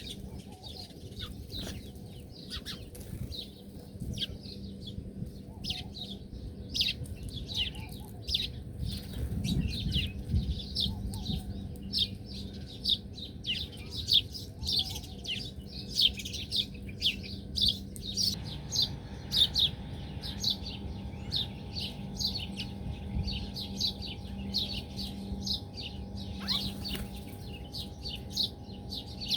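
Small birds chirping continuously, many short, high, quick down-slurred chirps several times a second, with a steady faint low hum beneath.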